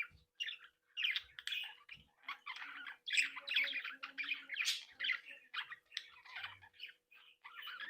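A flock of budgerigars chattering continuously, with a steady stream of warbles, chirps and squawks.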